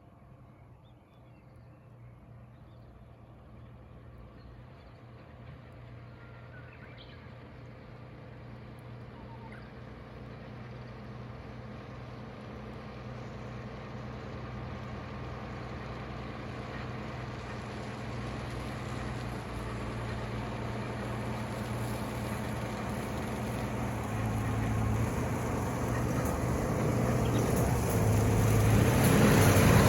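Heavy vehicle's engine approaching, a steady low drone that grows louder evenly and is loudest at the end.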